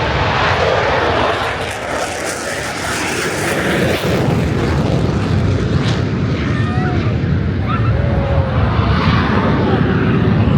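F-16 fighter jet passing overhead, its jet engine a loud, even rush of noise that eases slightly about two seconds in and builds again after four seconds.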